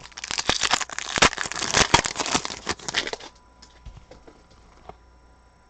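Plastic packaging crinkling and crackling while trading cards are handled, for about three seconds, then a few faint clicks.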